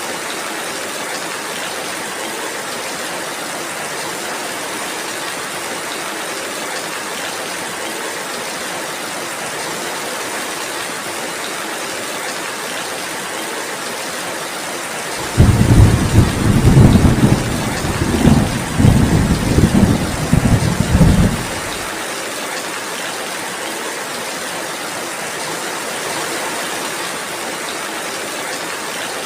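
Steady rainfall, with a loud low rumble of thunder about halfway through that lasts some six seconds and starts and stops abruptly.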